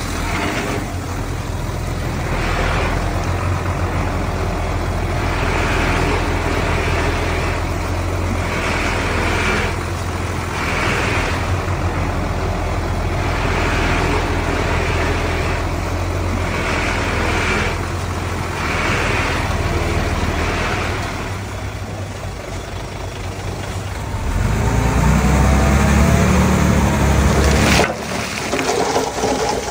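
Komatsu D31P bulldozer's diesel engine working under load, running steadily, with a hissing scrape every second or two as the blade and tracks work the soil. About four-fifths of the way through, the engine gets deeper and louder, then cuts off suddenly.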